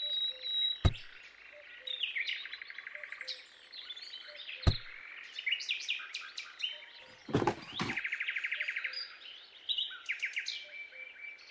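Several small birds chirping, with two fast trills of rapidly repeated notes. Two sharp clicks, one about a second in and one near the middle, and a short rush of noise a little later.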